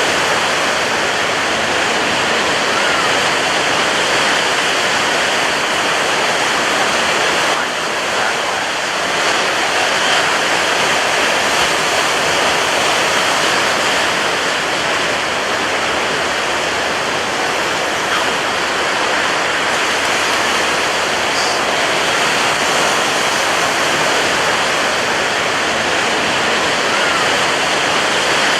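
Ocean surf breaking on a beach, a steady dense roar of water with little rise and fall.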